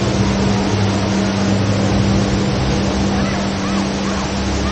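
Steady rushing of the HSBC Rain Vortex, a tall indoor waterfall falling into a pool, with faint crowd chatter and a steady low hum beneath it.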